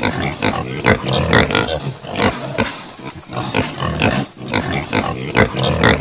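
Pig grunting: a continuous run of short grunts, two or three a second.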